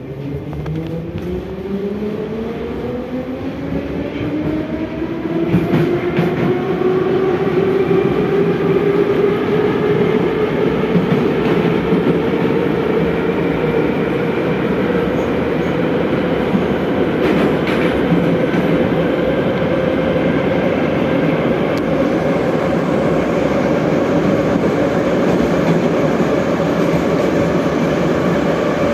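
81-717/714 metro train pulling away from a station: the traction-motor whine rises steadily in pitch and loudness through roughly the first ten seconds, then levels off into steady running noise with the wheels on the track.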